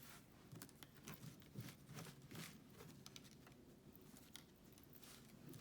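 Near silence: room tone with a few faint, soft clicks and rustles scattered through it.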